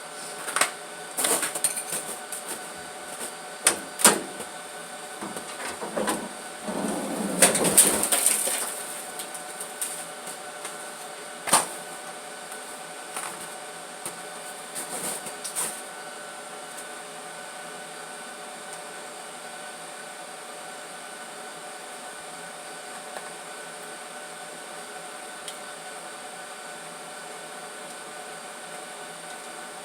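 1974 Plymouth Duster's slant-six engine running at a steady idle on a cold start, with scattered clicks and knocks in the first few seconds, a short louder stretch about seven seconds in, and one sharp knock near twelve seconds.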